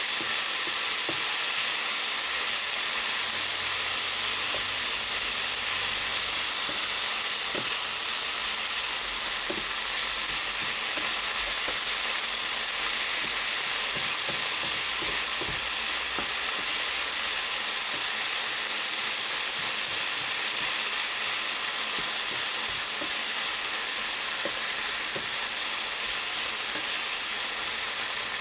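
Food frying in a hot pan with a steady sizzle, with scattered light clicks and scrapes of a utensil stirring it.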